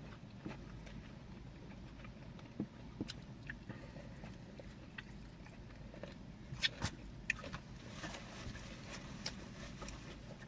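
People chewing and biting food close to the microphone, with scattered small mouth clicks; two louder clicks come about seven seconds in.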